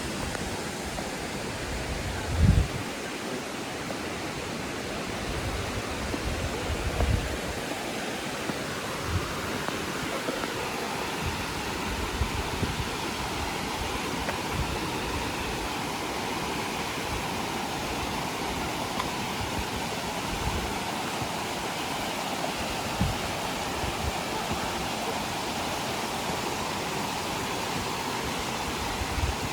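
Steady rush of water pouring down a waterfall, with a few short low thumps, the loudest about two seconds in and another about seven seconds in.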